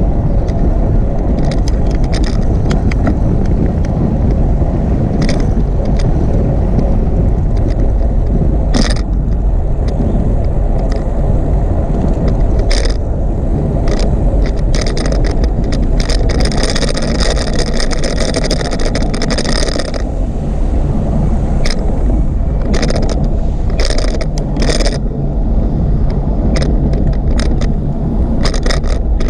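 Wind buffeting the microphone and rolling noise from a moving bicycle, a steady low rumble, with sharp clicks and rattles now and then and a stretch of higher hiss about two-thirds of the way through.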